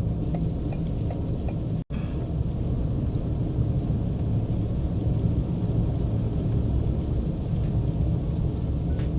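Steady low rumble of a car's engine and tyres on the road, heard from inside the cabin while driving. The sound cuts out for an instant about two seconds in.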